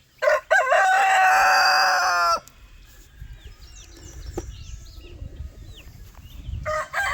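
A rooster crowing, one call of about two seconds whose pitch drops at the end. Softer short chirps and clucks follow, and a second crow begins near the end.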